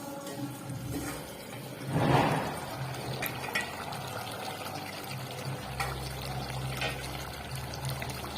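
Thick chicken masala gravy simmering in a pot, bubbling and popping with a few small clicks, with a louder surge about two seconds in; the gravy is cooked down and thick.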